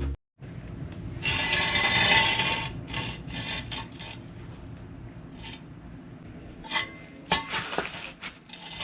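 Rubbing and scraping, with a louder rasping stretch about a second in and a few sharp knocks near the end.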